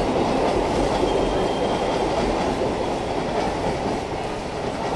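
Mumbai Western Railway suburban electric local train (EMU) running past: a steady noise of wheels on the rails that grows slightly quieter toward the end.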